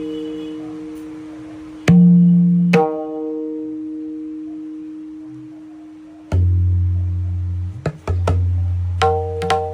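Tabla treble drum struck with single open and rim strokes, each stroke ringing on for several seconds with a clear, sustained pitch between D and E. About six seconds in, a deep bass tone sounds and a quicker run of strokes follows.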